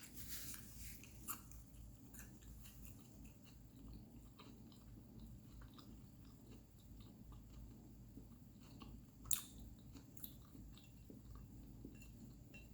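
A person chewing food quietly, faint mouth clicks and crunches, with a sharper click about a second in and a louder one about nine seconds in.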